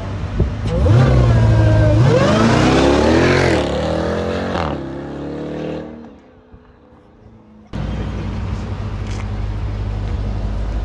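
Car engine revving hard under full acceleration, its pitch climbing steeply for a couple of seconds and then falling away as it lets off. After a brief quiet gap, a steady low running noise comes back in.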